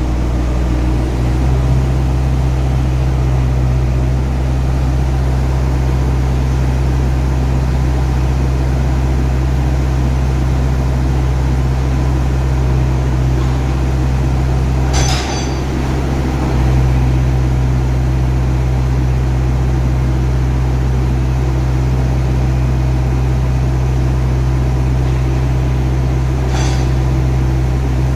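Telehandler's diesel engine running steadily under work, its note dropping briefly about halfway through. Two short sharp clicks or knocks, one about halfway and one near the end.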